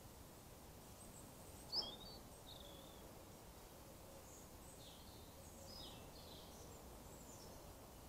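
Faint birdsong from small birds: a few short high chirps and twittering phrases over a low steady hiss. A single short, sharp tap just under two seconds in is the loudest sound.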